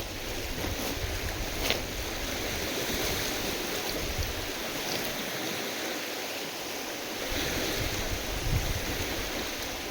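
Wind-driven lake waves washing and splashing, with gusts of wind rumbling on the microphone. The rumble eases off in the middle and returns near the end.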